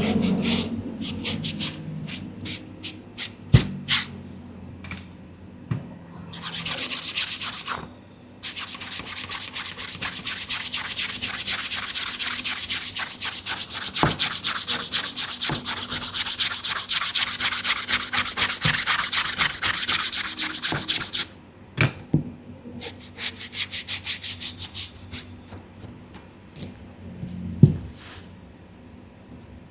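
Brush scrubbing a sneaker in fast, even strokes through most of the middle, with scattered taps and light rubbing before and after.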